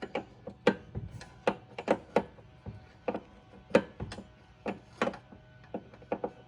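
Irregular sharp metallic clicks and knocks, a few a second, from hand tools working on a rear coilover.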